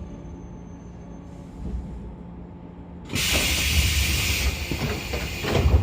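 A stopped 113 series electric train car hums steadily. About three seconds in, its pneumatic door engines let out a sudden loud hiss of compressed air as the doors open. The hiss eases off and ends with a thump near the end.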